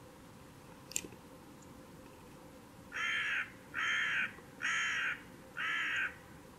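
A bird gives four harsh, rasping calls in a quick even series, each about half a second long, the first about three seconds in. A single sharp click comes about a second in.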